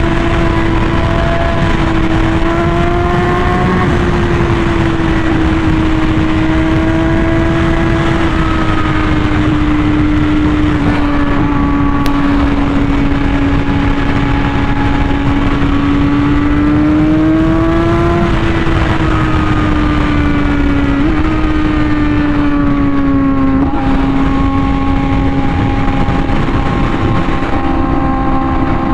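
Honda Fireblade RR-R SP's inline-four engine, breathing through an SC Project titanium exhaust, held at high revs during a high-speed cruise. Its pitch drifts gently up and down with the throttle, with a few quick dips.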